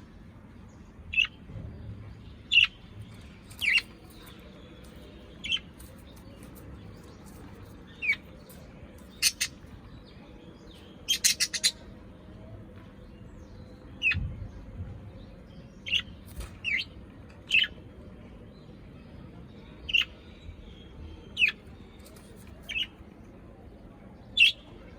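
Pet parrot giving short, sharp chirps one at a time every second or two, each falling quickly in pitch. Near the middle comes a quick run of four sharper, brighter notes.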